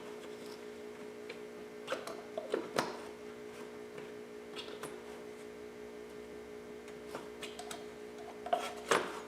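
Scattered light clicks and knocks, a cluster of three about two seconds in and two more near the end, over a steady low hum.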